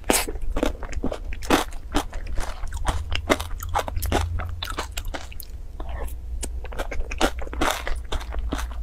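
Close-up chewing of a mouthful of corn flakes in yogurt: quick, irregular crunches, some louder than others, over a low steady hum.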